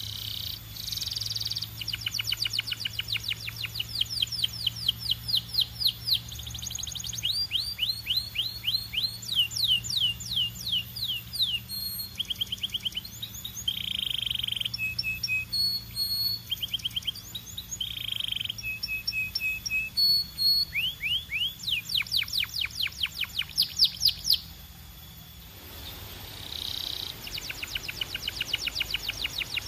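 Belgian canary singing a long song: fast trills of rapidly repeated downward-sweeping notes alternating with short held notes and rolls, with a brief pause near the end.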